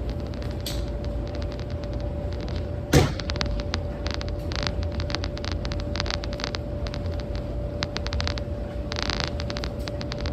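Steady low hum and rumble of laundromat machines running, with scattered small clicks and rustling and one sharp knock about three seconds in.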